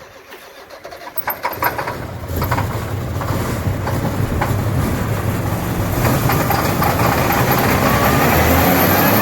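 Diesel engine of the Volvo heavy truck starting up, then running and growing steadily louder over several seconds, with a faint rising whine near the end.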